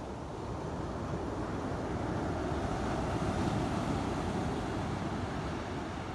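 Ocean surf: waves breaking and washing in, a steady rushing noise that swells to a peak midway and eases off again.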